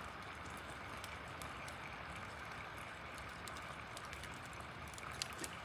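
Steady, fairly quiet outdoor background hiss, with a few faint clicks near the end.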